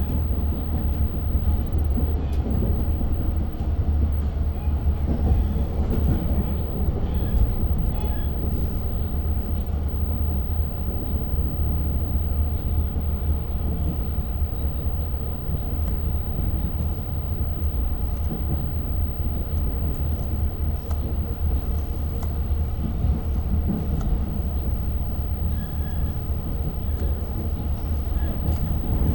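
Diesel-hauled Long Island Rail Road train running at speed, heard from on board: a steady deep rumble of wheels on track, with faint light clicks throughout.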